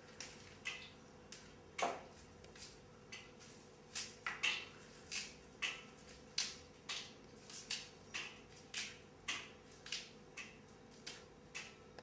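A series of light, sharp clicking taps, roughly two a second and somewhat uneven, with one louder knock about two seconds in, over a faint steady hum.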